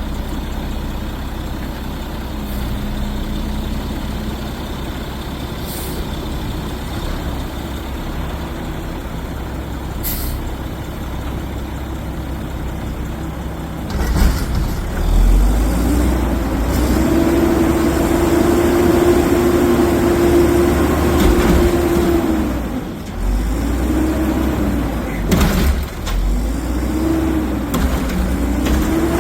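Garbage truck engine running low and steady, then revving up about halfway through, its pitch rising and falling several times.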